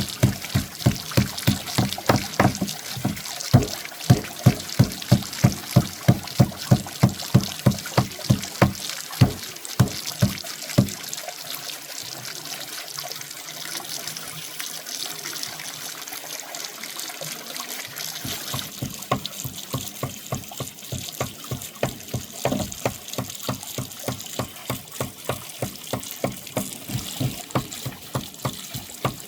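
Running water with an even series of sharp knocks, about three a second, that pause for several seconds in the middle and then resume.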